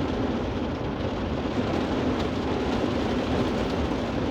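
Heavy rain pouring down on a car, heard from inside as a steady, even wash of noise.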